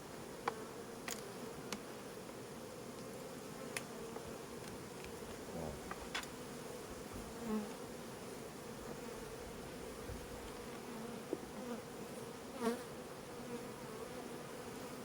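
Honeybees buzzing steadily around an open hive, with a few sharp clicks scattered through.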